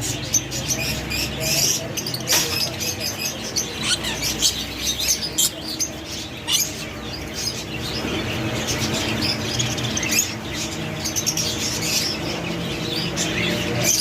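Several birds chirping and squawking, with many short high calls overlapping and a few sharp clicks among them.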